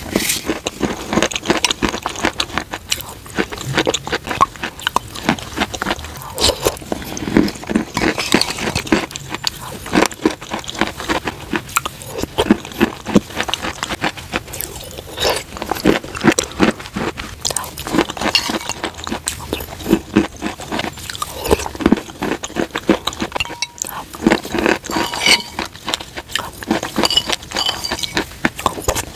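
Close-miked chewing and crunching of white chalky mineral chunks mixed into a creamy paste: many crisp crunches in quick succession as each spoonful is bitten and chewed.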